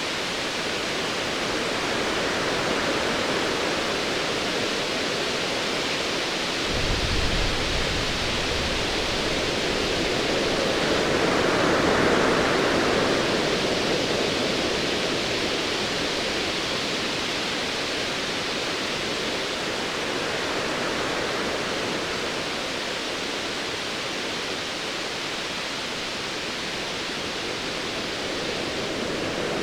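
Sea waves washing and surging in a steady roar of surf, swelling to a peak about twelve seconds in. A short, deep rumble of distant thunder comes about seven seconds in.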